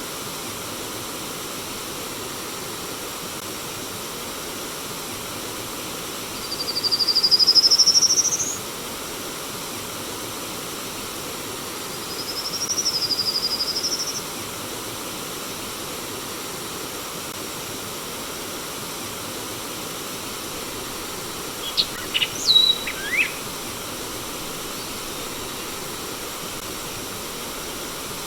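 Steady rush of flowing stream water, over which a bird gives a long rising call about seven seconds in and a second, wavering call around twelve seconds in, then a few short sharp chirps a little past twenty seconds.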